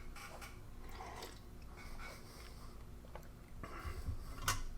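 Quiet mouth sounds of someone sipping and tasting a reconstituted drink, with a sharp click near the end.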